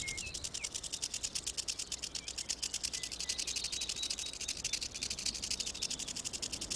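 Rattlesnake shaking its rattle: a steady, fast, dry buzz of clicks, the snake's warning signal. A few faint bird chirps come near the start.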